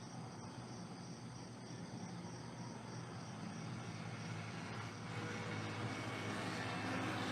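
Crickets or other insects chirring steadily, with a motor growing louder from about five seconds in, like a passing vehicle or aircraft.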